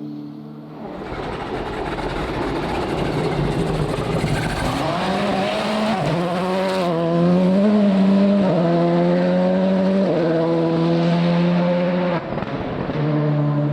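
Rally car engine at full throttle, growing louder as the car approaches along the stage, its note stepping up and down with gear changes.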